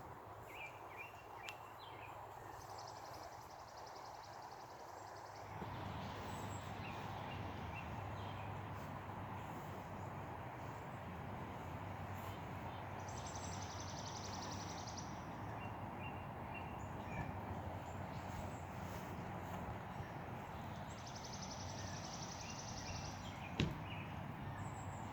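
Steady rain falling, getting louder about five seconds in. Birds chirp through it, and one gives a high buzzy trill three times.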